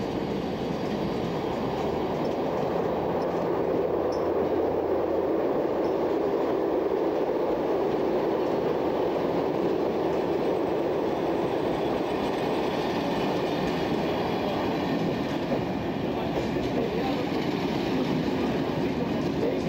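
SNCB motorail train, with car-carrier wagons and couchette coaches, rolling past: a steady rumble of wheels on rails that grows a little louder after a few seconds.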